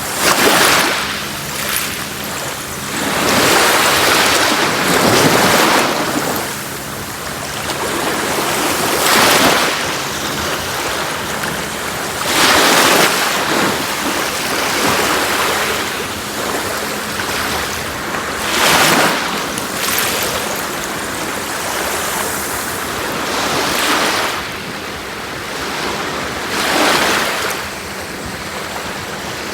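Sea waves breaking and washing up a shore: a steady rush of surf that swells louder every few seconds, about seven times.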